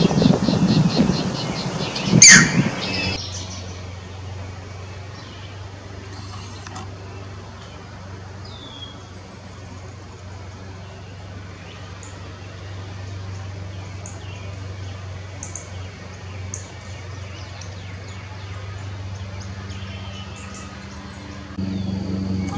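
Short high bird chirps scattered over a steady low hum, with one brief falling whistle. The opening seconds are louder, with a fast ticking trill and a sharp knock.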